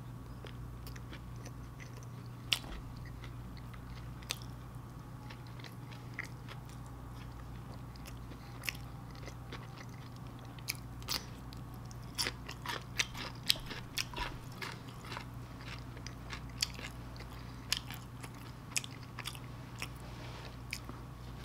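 Close-miked chewing of a soft sloppy joe sandwich: wet mouth clicks and smacks that come thickest a little past halfway, over a steady low hum.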